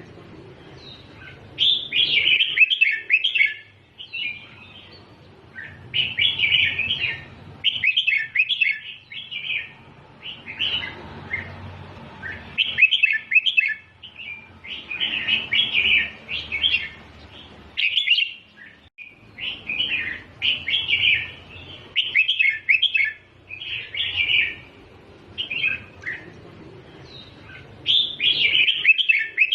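Red-whiskered bulbul singing short warbled phrases, one every two seconds or so, over a faint low hum.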